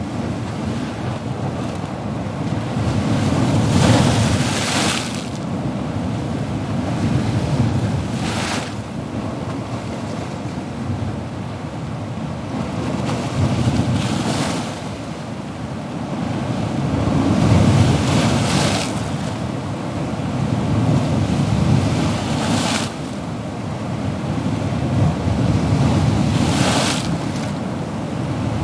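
Ocean surf breaking: a steady low rumble of waves with a hissing wash of breaking water six times, about every four to five seconds.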